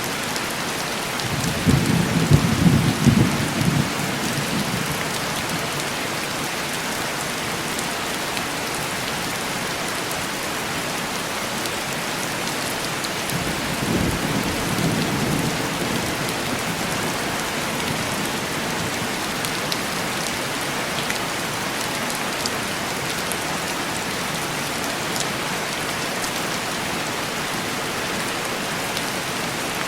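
Steady heavy rain on a window, with two low rolls of thunder: a louder one about two seconds in and a softer one around the middle.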